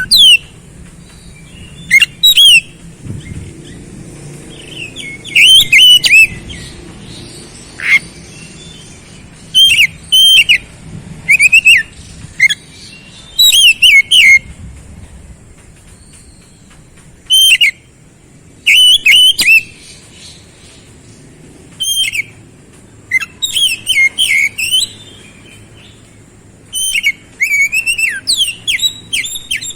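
Oriental magpie-robin (kacer) singing: short loud phrases of quick, sharp whistled notes sliding up and down, repeated about a dozen times with pauses of a second or two between them.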